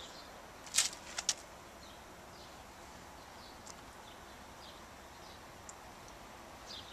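A few short clicks or knocks about a second in, then quiet outdoor background with faint, short, high bird chirps repeating here and there.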